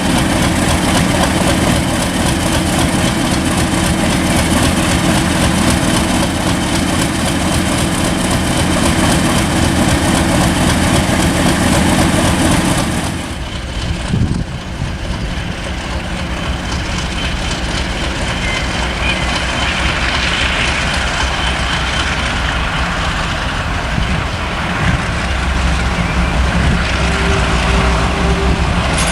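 A heritage diesel locomotive's engine running steadily, a deep even throb with a hiss on top that falls away about halfway through.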